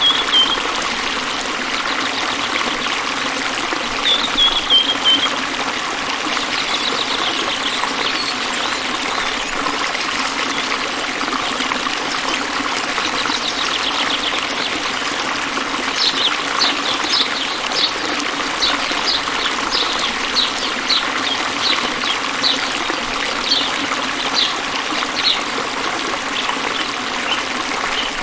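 A stream trickling and splashing steadily. Short high chirps come now and then over it, with a quick run of them, one or two a second, in the second half.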